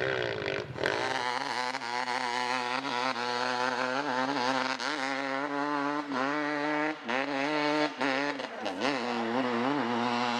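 An off-road vehicle engine running close by, its revs rising and falling unevenly as it is ridden over rough ground, with brief drops in throttle twice near the end.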